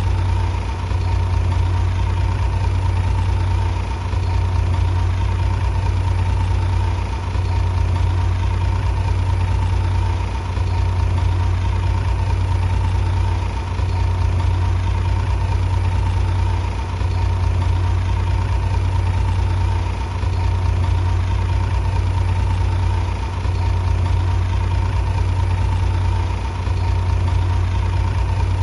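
Heavy engine running steadily with a deep, even hum that dips briefly about every three seconds.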